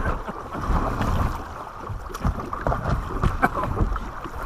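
Kayak hull being worked free after running up onto an obstacle: irregular knocks and bumps with water sloshing, over a low rumble of handling noise.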